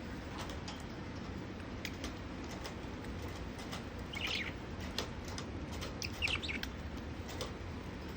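Budgerigars chirping in two short bursts, about four and six seconds in, over scattered light ticks and pattering from the birds splashing and fluttering in their bath water.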